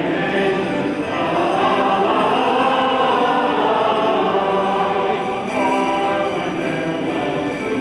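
A choir singing in long, held notes.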